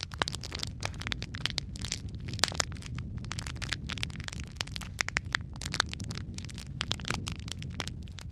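Wood fire crackling in a fireplace: many sharp, irregular pops and snaps over a steady low rumble of flames.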